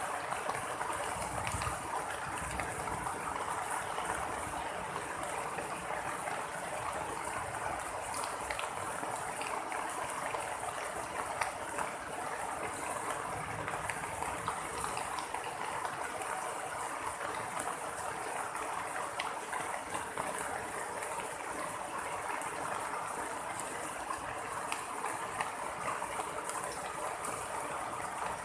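Steady heavy rain falling, an even rushing hiss with scattered small ticks of drops. No thunderclap stands out.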